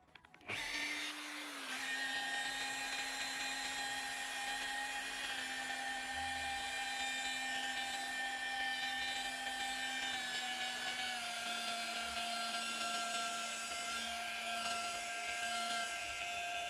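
Small high-speed rotary power tool starting up about half a second in and running with a steady high whine. Its pitch drops slightly twice, as if it is being loaded.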